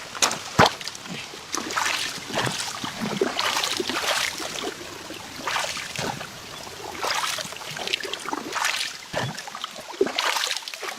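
Water splashing and sloshing in irregular surges, as of hands or a net working in shallow water.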